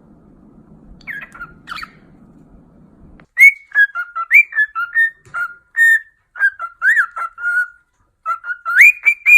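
Pet parrot whistling a quick run of short notes that rise and fall in pitch, like a whistled tune, starting about three seconds in after a couple of quieter notes.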